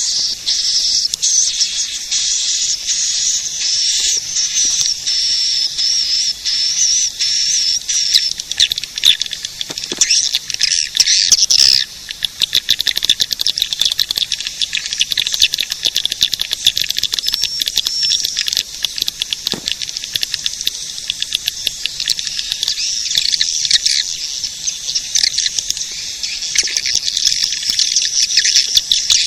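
Swiftlet caller recording: dense, continuous high-pitched chirping and twittering of swiftlets, played as a lure to draw swiftlets into a nesting house.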